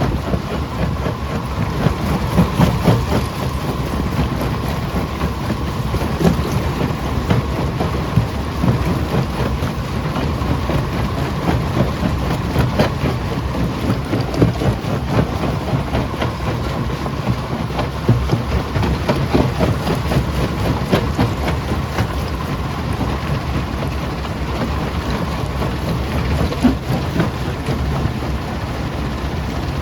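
Primary jaw crusher running and crushing rock: a steady low rumble under a continuous, irregular clatter of stones knocking and breaking, with a faint steady whine underneath.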